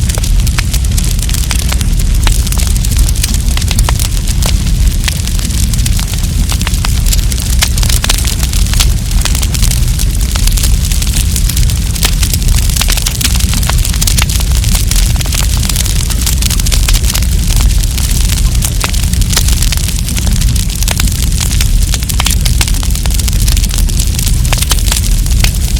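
Campfire burning, with dense, irregular crackles and pops over a steady low rumble.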